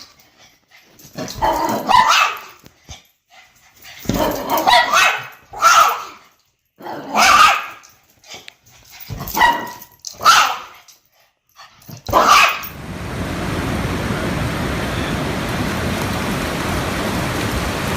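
A dog barking and vocalizing in about seven drawn-out calls. About twelve seconds in, these give way to a steady hiss like rain.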